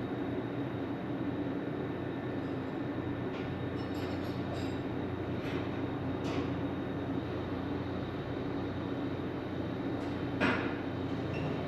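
An engine running steadily with a low, even drone, broken by a few faint clicks and one short knock about ten and a half seconds in.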